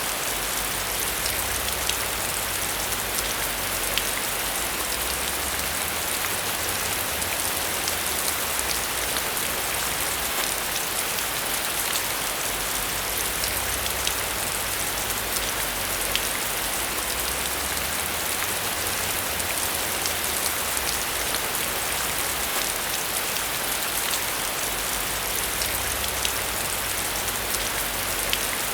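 Steady rain falling, with a constant hiss and fine scattered drop ticks.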